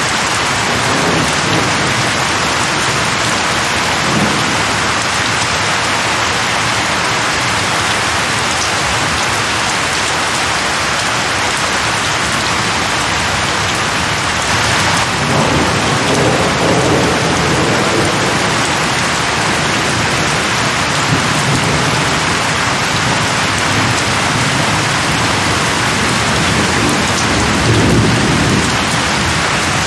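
Heavy rain falling in a steady dense hiss, with low rolls of thunder rumbling under it, loudest about halfway through and again near the end.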